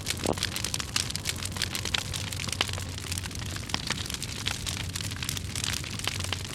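Dry firewood burning in a campfire, crackling with many sharp irregular pops over a steady hiss.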